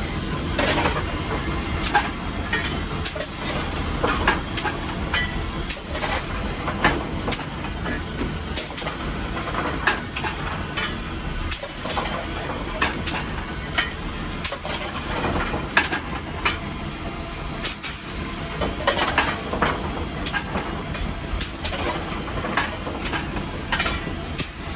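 Nevada Northern No. 81 steam locomotive heard from inside its cab while working: a steady hiss of steam over the running rumble, broken by irregular sharp clanks and knocks.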